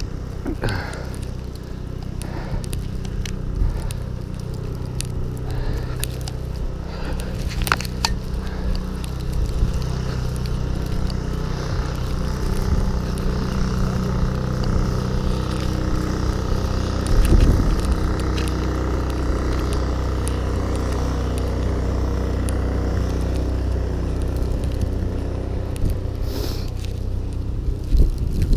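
Blizzard wind rumbling on the microphone, with crunching and scraping footsteps in snow and a few sharp clicks.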